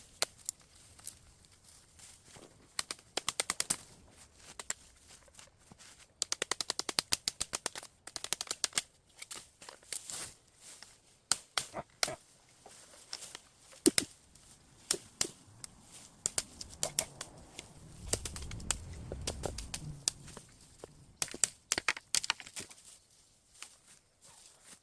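Quick runs of sharp cracks and clicks from dead, storm-broken bamboo being cut and broken with a hand saw and a nata. A duller low rumble comes about three-quarters of the way through.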